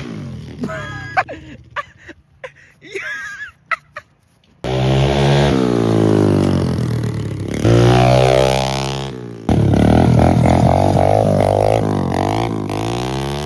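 Pit bike's small single-cylinder engine revving hard, its pitch climbing and falling repeatedly, loud through an exhaust with the spark arrestor removed. It comes in suddenly about four and a half seconds in after a quieter start, and the sound breaks off and restarts abruptly twice.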